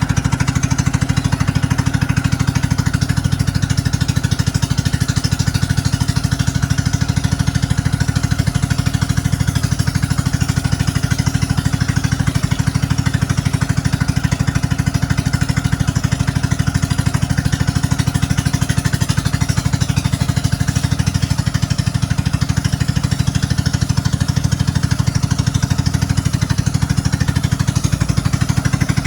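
A banka boat's engine running steadily under way, a fast, even pulsing exhaust beat.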